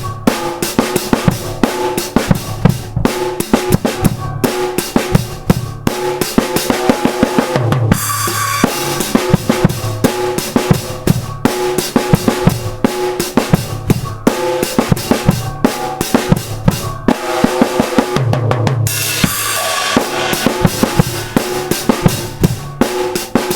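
Drum kit played continuously, with rapid bass drum and snare strikes, and cymbal crashes about eight seconds in and again near nineteen seconds.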